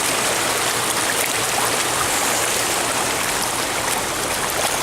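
Floodwater running and draining off, a steady, even rush of water.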